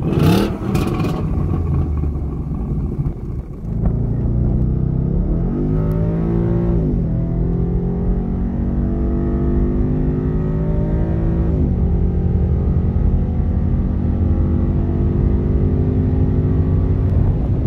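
Ford Mustang GT's 5.0 V8 on stock exhaust: a sharp rev at the start, then hard acceleration heard from inside the cabin. The engine note climbs and drops sharply at upshifts about seven and twelve seconds in, then keeps rising slowly.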